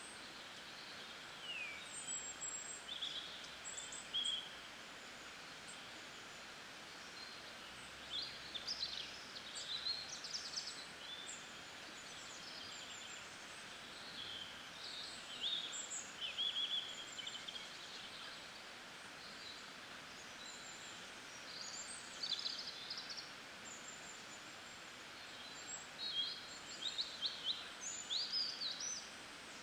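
Songbirds singing in short phrases of quick high chirps every few seconds, over a steady faint hiss of outdoor ambience.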